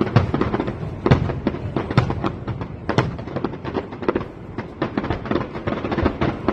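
Fireworks display going off in a dense, rapid string of bangs and crackles, several a second, with louder booms about once a second in the first few seconds.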